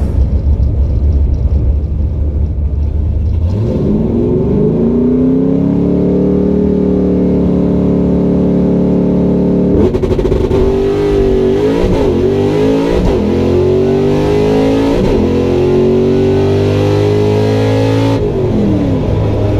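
Drag-racing car engine: a low rumble, then about three and a half seconds in the revs climb and hold high for the run. There is a brief break about halfway through, and the revs fall away near the end.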